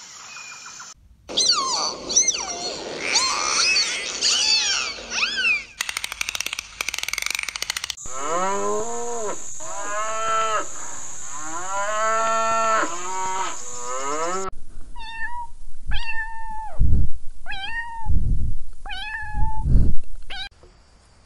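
A run of different animal calls: first a dense chorus of overlapping high chirping calls, then cows mooing again and again. Last comes a cat meowing about six times, with low piano notes sounding as it steps on the keys.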